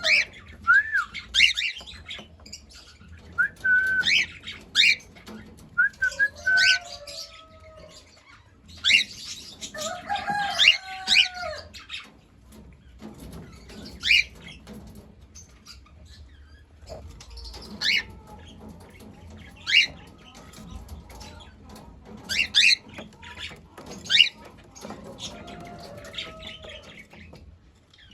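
Cockatiel chirping and calling over and over: short whistled calls, some arching up and down in pitch and some sharp and high, coming in clusters every second or two, with faint clicks in between.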